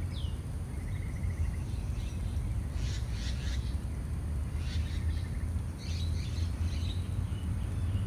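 Small birds calling and chirping over a steady low rumble: a short falling whistle at the start, a brief buzzy trill about a second in, and bursts of high chirps about three seconds in, just before five seconds, and again from about six to seven seconds.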